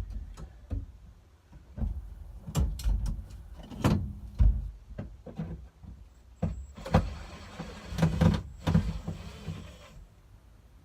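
Knocks and clunks of tools and parts being handled inside a car's cab, followed about seven seconds in by a cordless impact driver running for a few seconds, likely on the dash pad screws.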